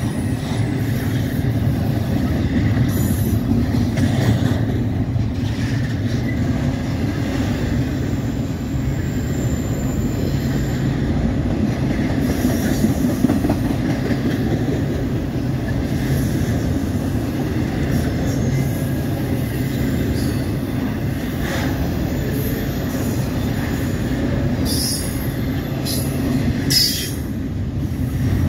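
Double-stack intermodal freight cars rolling past, a steady rumble of steel wheels on rail with a few brief high wheel squeals, two of them near the end.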